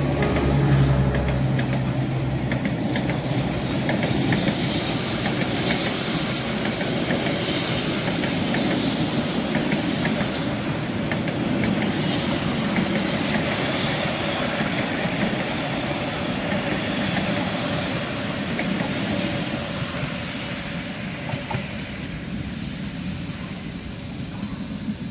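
A passenger train hauled by a D19E diesel-electric locomotive rolling past, its coaches clicking over the rail joints, with a low engine hum in the first couple of seconds. The sound fades toward the end.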